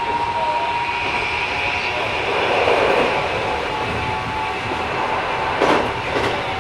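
Keikyu 1000 series electric train running, heard from inside the car: a steady rumble of wheels on rail with a steady motor and inverter hum, and two short knocks near the end.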